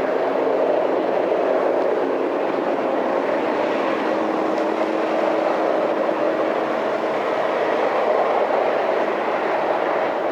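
Train rolling past, a steady rumble and hum of wheels on the tracks.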